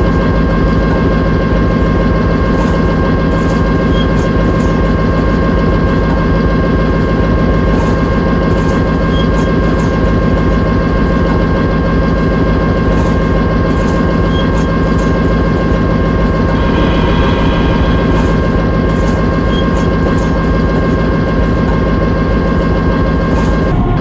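An old railway locomotive's engine running steadily: a deep, continuous rumble with a steady high whine over it.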